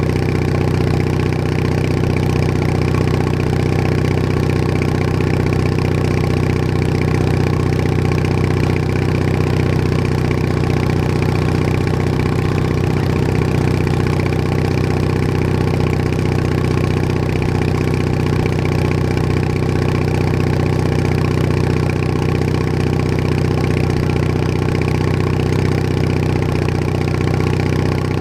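Bolens HT20 garden tractor engine running at a steady, unchanging speed.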